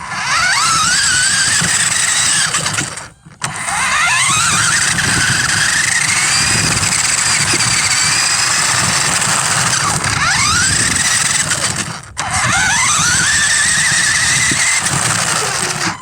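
Small electric motor of a radio-controlled model whining loudly close to the microphone, its pitch rising again and again as the throttle is opened, with a rattling noise underneath. It cuts out briefly twice, about three seconds in and about twelve seconds in.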